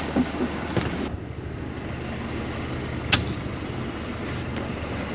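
A small boat's engine running with a steady low hum, and one sharp knock about three seconds in.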